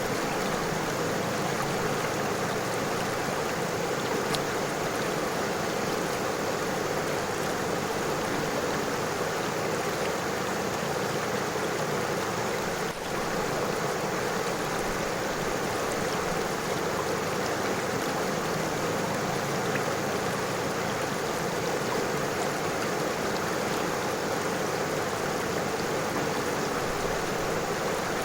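A river flowing: a steady rush of running water that dips briefly about halfway through.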